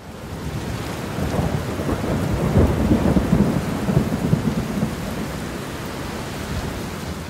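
Heavy rain pattering on puddles and wet ground, with a low rumble underneath. It swells in over the first second and is loudest around the middle.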